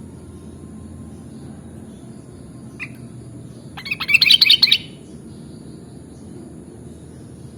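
Sooty-headed bulbul calling: a single short note, then about a second later a quick, loud burst of rapid chirping notes, over a steady low background noise.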